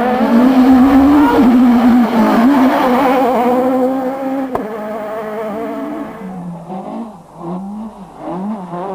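Rally car engine at high revs under full throttle, loud and close, for the first four and a half seconds. After a sudden cut, a rally car engine is heard further off, revving up and down with short lifts of the throttle.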